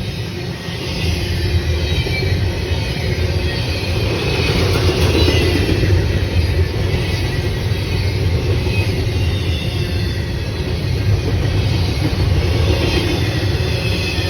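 Train running on the rails with a steady rumble of wheels and cars, growing louder to a peak about five to six seconds in.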